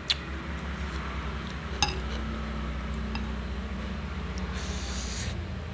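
Eating utensil clinking against a glass dish, two sharp clinks about two seconds apart, the second the louder, then a faint tick. Near the end comes a short hissy rustle, over a steady low hum.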